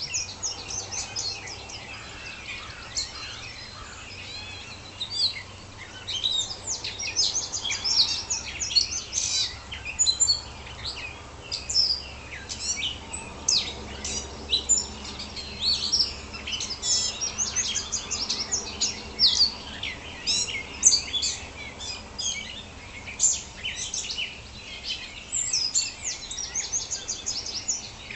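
Dawn chorus of several songbirds singing at once: dense overlapping chirps, trills and whistled notes, with a faint low hum underneath.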